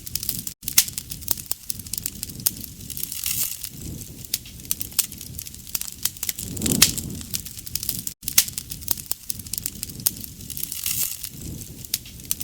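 Wood fire crackling with dense sharp pops, over a low rushing swell of flame that rises and falls every few seconds and is strongest about seven seconds in. The sound drops out for an instant twice.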